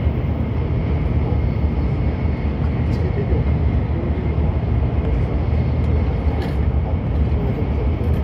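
Cabin noise of a Shinkansen train running at speed: a steady low rumble with a faint, steady high whine over it.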